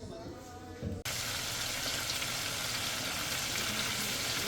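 Food frying in a hot pan: a steady sizzle that starts suddenly about a second in.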